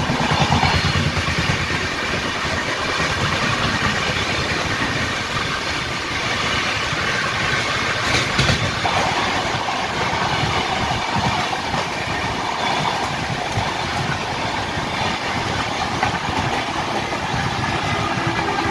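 Two Indian Railways express trains running side by side at speed on parallel tracks: a steady rumble and rattle of wheels and coaches, with a sharp clack about eight seconds in.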